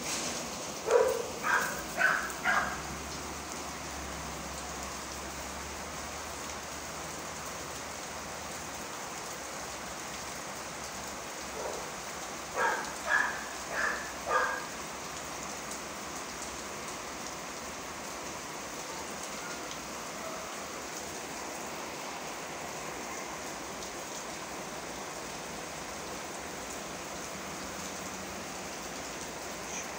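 Steady rain falling, an even hiss throughout. Twice, about a second in and again near the middle, a quick run of four short pitched calls stands out above it.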